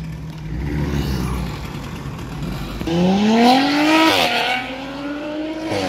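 Loud performance car accelerating hard: a low engine rumble, then about three seconds in the engine note climbs steeply for a second, dips briefly as if on a gear change, and carries on rising more gently. Ultra loud.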